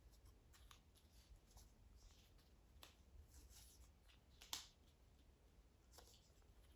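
Near silence with faint paper rustling and small clicks as strips of brown paper are handled and pressed onto a glued paper plate; one sharper click comes about four and a half seconds in.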